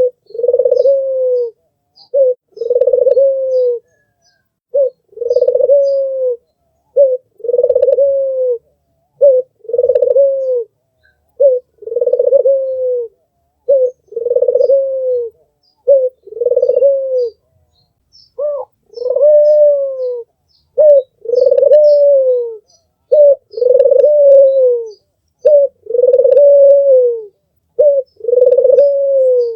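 Albino puter (white ringneck dove) cooing over and over: each call is a short note followed by a longer note that falls at the end, repeated about every two seconds. Faint high chirps of small birds sit above the coos.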